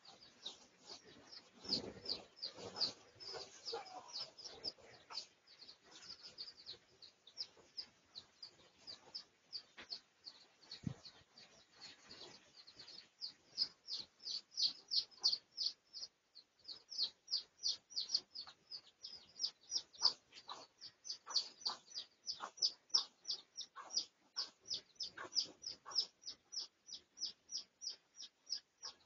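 A bird chirping over and over, short high notes that slide down, about three a second, growing stronger around the middle and carrying on steadily.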